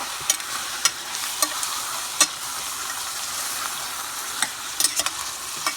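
Cubed chicken sizzling in hot vegetable oil with sautéed garlic and onions in a pan, with a steady hiss. A utensil clicks and knocks against the pan now and then as the mixture is stirred.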